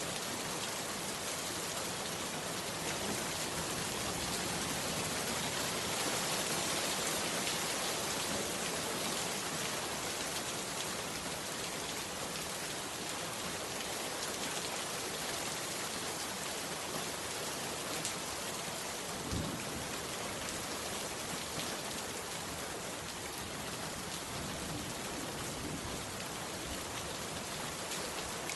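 Heavy rain falling steadily, with a dense hiss and fine drop ticks, and a single soft low thump about two-thirds of the way through.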